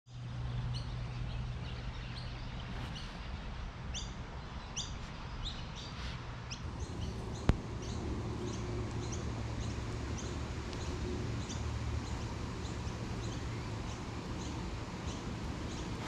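Small birds chirping over and over in short, falling notes, above a steady low background hum. A single sharp click comes about seven and a half seconds in.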